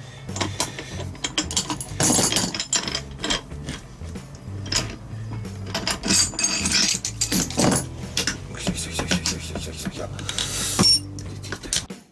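Metal clicks, taps and scraping from hand tools and small motorcycle engine parts being fitted together during engine assembly, over background music.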